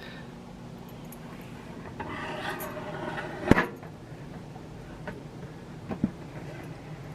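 Cookware being handled: a soft scrape about two seconds in, then a sharp knock a little after, and two lighter taps later, over a steady low hum.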